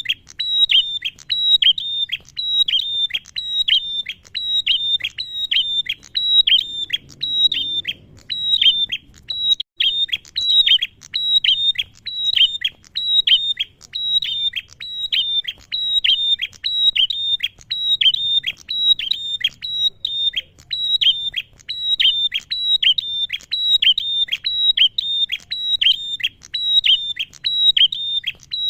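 Male prenjak (bar-winged prinia) calling: a fast, unbroken series of sharp, high, downward-slurred notes, repeated evenly without a pause.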